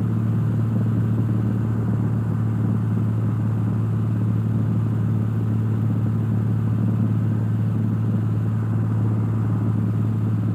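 Cessna 172's piston engine and propeller droning steadily in flight, heard inside the cockpit, with an unchanging low hum.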